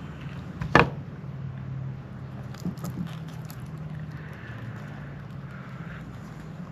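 Craft materials being handled on a work table: one sharp click or knock about a second in, then a few light taps and small handling noises, over a steady low hum.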